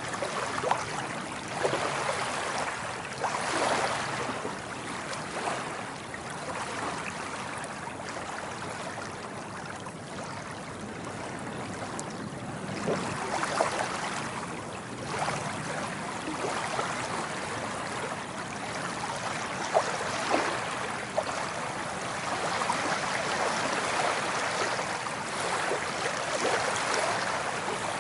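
Water waves washing in and drawing back, swelling and easing every few seconds, with a few sharp splashes.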